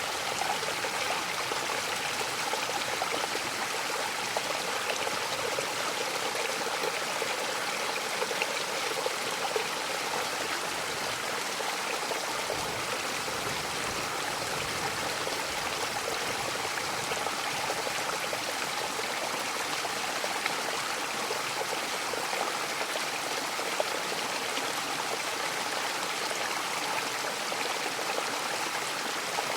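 Mountain waterfall rushing steadily, an even hiss of falling water with little deep rumble.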